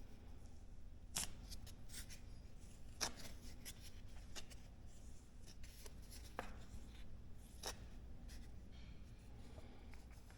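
Irregular light clicks and scraping from handling the tools and containers for two-part Evercoat Formula 27 body filler, about a dozen sharp ticks spread unevenly.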